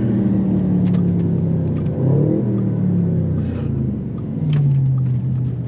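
Audi RS6 4.0 TFSI twin-turbo V8 in an S5 running steadily under way, its note shifting briefly about two seconds in and settling lower in pitch after about four seconds.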